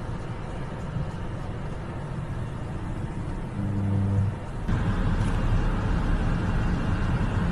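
Highway traffic noise: a steady low rumble of cars on the road. A short pitched tone sounds about three and a half seconds in, and just before five seconds the noise jumps louder and fuller.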